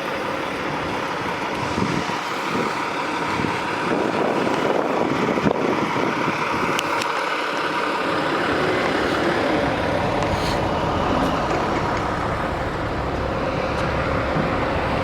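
Semi truck engine running close by, a steady drone whose low end grows stronger about halfway through.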